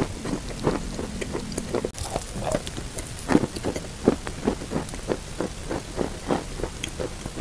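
A person chewing chalk, each bite a short crisp crunch as the chalk is ground between the teeth, in a steady run of about two to three crunches a second.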